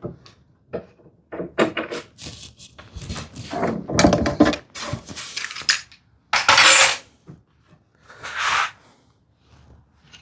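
A clamp being loosened and taken off woodwork: a series of small clicks, knocks and rattles of metal and wood, with two longer scraping sounds about six and a half and eight and a half seconds in.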